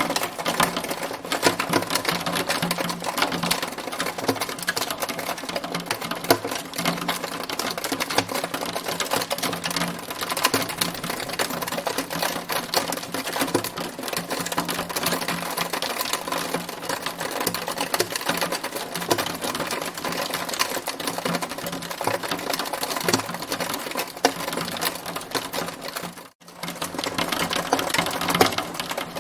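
Hailstones pelting down in a dense, steady clatter of countless small hits, with a brief break about 26 seconds in.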